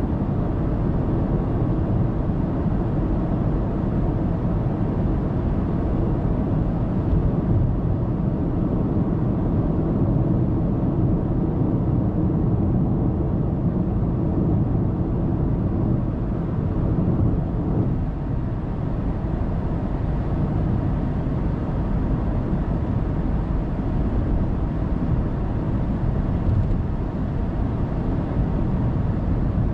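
Steady road noise of a car cruising on an expressway: tyre rumble and engine, heard from inside the cabin by a dashboard camera.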